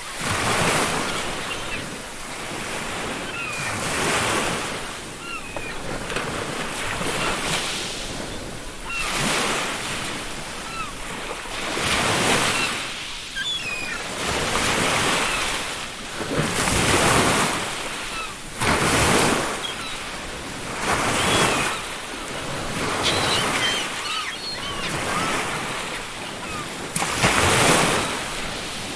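Ocean waves washing onto a beach, the surf swelling and falling every couple of seconds, with faint seagull calls now and then in the background.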